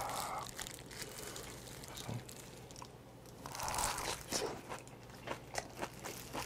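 Close-up chewing of a mouthful of oyster bossam, a salted napa cabbage wrap with raw oysters and boiled pork: soft crunches and clicks from the chewing, coming thicker in the second half.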